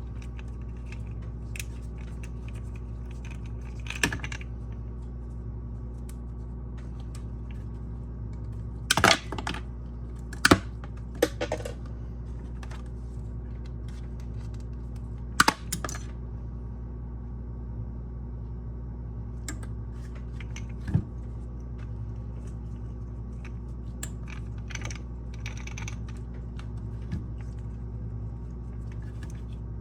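Sporadic sharp clicks and knocks of small hard objects being handled, most of them bunched near the middle, over a steady low hum.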